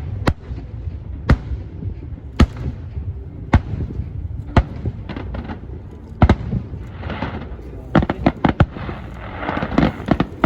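Fireworks shells bursting, sharp bangs about once a second, then a quick run of several bangs close together near the end.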